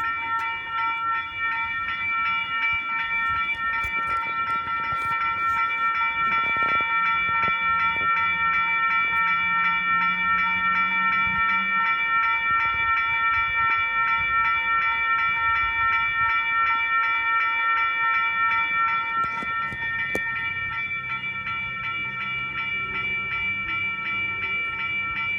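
Western Cullen Hayes electronic level-crossing bells ringing rapidly and continuously: the crossing is activated for a train. A faint low hum comes and goes underneath.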